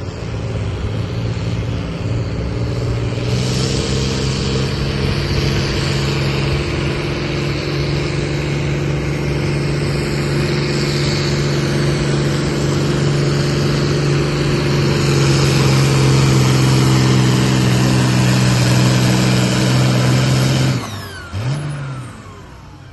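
Pulling tractor's engine held at full throttle, a loud steady high-revving drone that grows louder over about twenty seconds. Near the end it cuts off abruptly, with one brief blip of revs as it shuts down.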